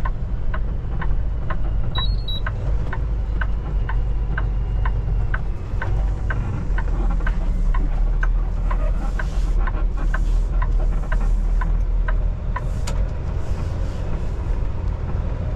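Semi truck's diesel engine running low and steady inside the cab, with the turn-signal relay ticking about twice a second.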